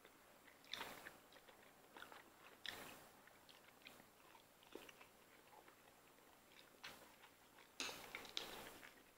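Faint chewing and biting of two people eating lobster and noodles, a scatter of small wet mouth clicks and crunches, with a few louder bites about a second in, near three seconds and around eight seconds.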